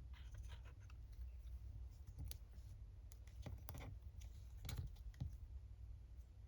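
Faint scattered light taps and clicks of small paper craft pieces being handled and set down on a table, a handful of them spread irregularly.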